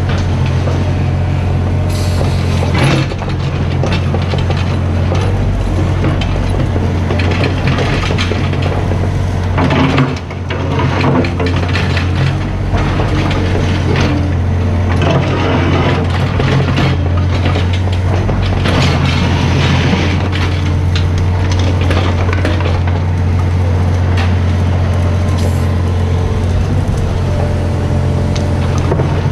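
Mini excavator's diesel engine running steadily under load, with repeated clanks and scraping of metal as the machine works.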